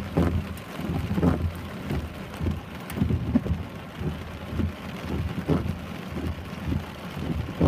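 Heavy rain pouring, with frequent irregular low thuds.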